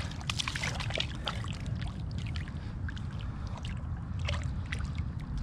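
Small irregular splashes and drips of water as a big bass is eased back into the water by hand, over a steady low rumble.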